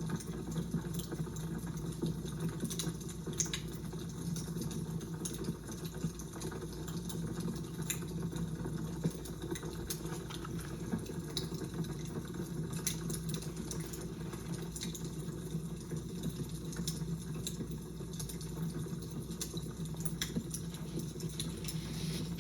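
Fire crackling: a steady low rush with frequent irregular sharp pops and snaps.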